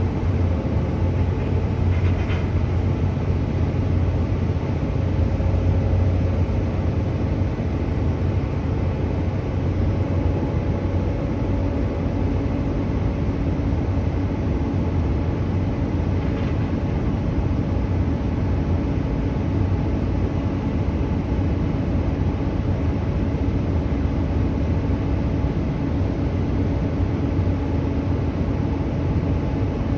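A truck engine running steadily, a constant low drone with no changes in pitch or level.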